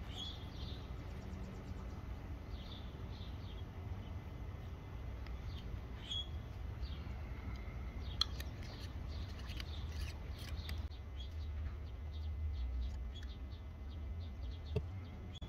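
Outdoor background of scattered short, high bird chirps over a steady low rumble, with a couple of sharp ticks.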